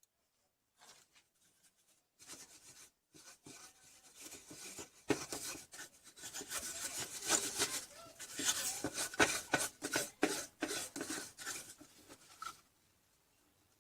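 Faint, irregular rubbing and scraping with small clicks, like objects being handled and moved on a surface, starting about two seconds in and stopping near the end.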